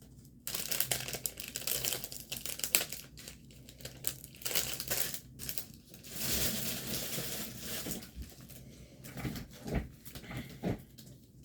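Plastic packaging of a diamond painting kit crinkling and rustling as it is handled, with many small sharp crackles and a few soft knocks near the end.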